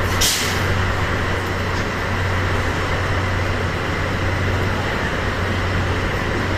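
DD51 diesel-hydraulic locomotive idling at the platform with a steady low hum, and a short hiss of air just after the start.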